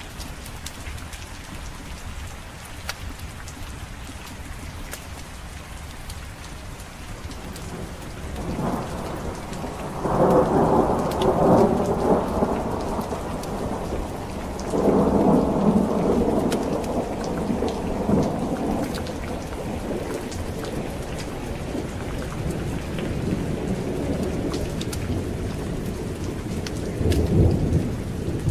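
Steady rain with rolling thunder: a long rumble builds about a third of the way in, with the loudest peals around the middle, and another rumble near the end.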